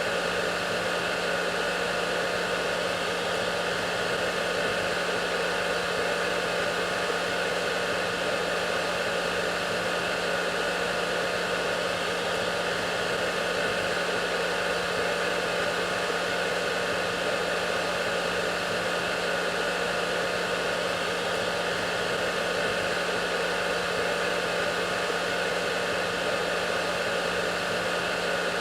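Hair dryer running steadily: a constant rush of blown air over a low motor hum, with a few faint steady whine tones above it.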